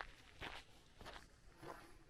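Faint footsteps of a person walking at an even pace, about three steps in two seconds.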